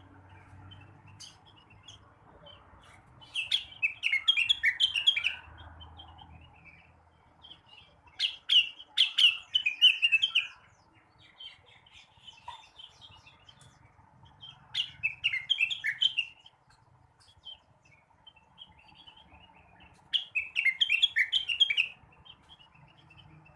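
Leafbird (cucak rengganis) singing in four short bursts of fast, jumbled chattering phrases, with scattered single chirps between them.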